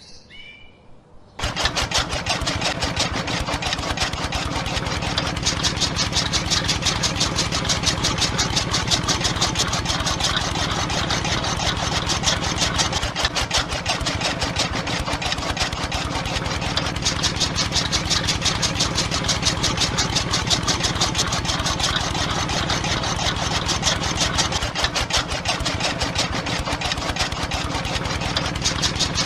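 A small motor-driven machine starts suddenly about a second and a half in and runs steadily with a fast, even chugging rattle like an idling engine.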